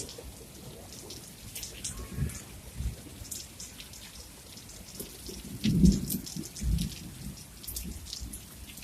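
Rain falling, with scattered drops ticking over a steady hiss. Short low thumps come a few times, the loudest just before six seconds in.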